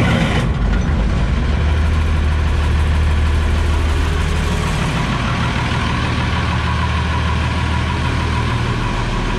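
Combine's diesel engine running steadily at idle, a loud low hum that shifts slightly near the end.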